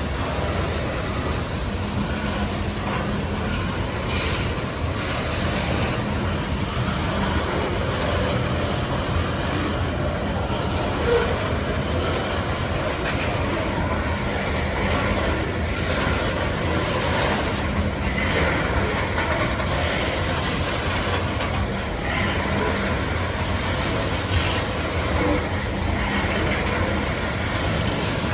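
BNSF coal train's cars rolling past at steady speed, a continuous rail rumble with the wheels clicking over rail joints.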